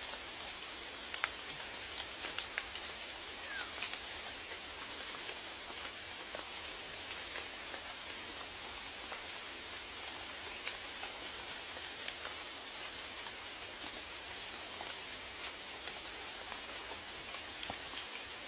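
Steady rain falling, an even hiss with scattered sharp ticks of individual raindrops striking close by.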